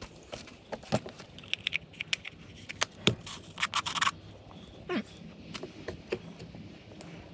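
Metal hand tools and brake parts clinking, tapping and scraping in irregular knocks, with short metallic jangles around two and four seconds in.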